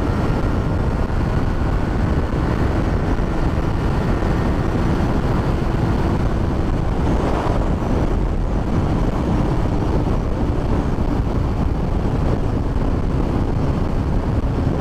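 Heavy, steady wind rush on the microphone at highway speed, over the steady drone of a 2007 Honda CBR600RR's inline-four engine cruising.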